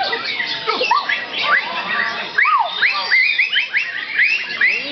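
Several caged songbirds, white-rumped shama among them, singing over one another in a dense tangle of whistles and chirps. From about halfway in, one bird repeats a quick series of short, arching whistled notes, two or three a second.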